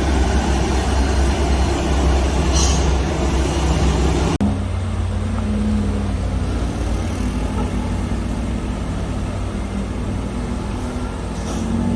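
Heavy vehicle engines running steadily, with a brief hiss about two and a half seconds in. A little after four seconds the sound changes abruptly to a steadier engine hum.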